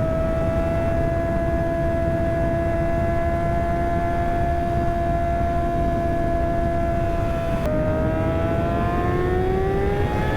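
Kawasaki ZX6R inline-four engine running at steady high revs under wind rush, then an upshift about three-quarters of the way in, the pitch dropping and climbing again as the bike accelerates.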